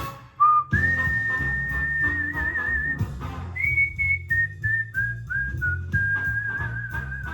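A whistled melody over backing music with a bass line. It has long held notes that waver slightly at their ends, and between them a run of short notes stepping down in pitch.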